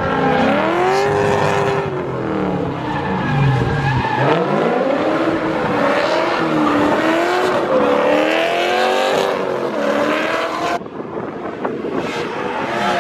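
Drift car engines revving up and falling back again and again as the cars slide, at times two engines at once, over tyre noise. The sound dips briefly near the end.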